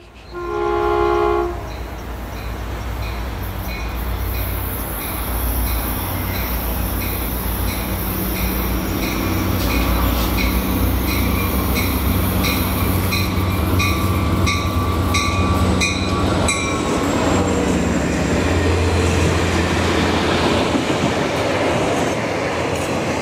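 A locomotive gives a short horn blast about a second in, then rings its bell steadily as it approaches, over the running engine. The bell stops about two-thirds of the way through, and the low rumble of engine and wheels grows as the train rolls past.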